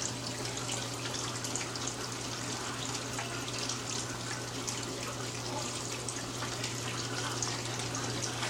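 Water running steadily and splashing into a container as it fills, with many small drips and splashes and a low steady hum underneath.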